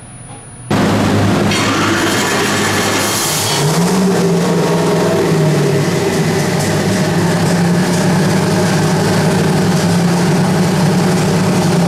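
Twin-turbocharged 6.2-litre LS-type V8 running on an engine dyno. It comes in abruptly and loud about a second in, rises in revs around four seconds in, then holds a steady speed.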